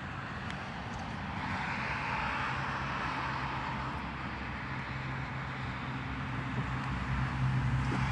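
Outdoor traffic noise: a vehicle's rushing sound swells and eases off, then a steady low engine hum grows louder toward the end.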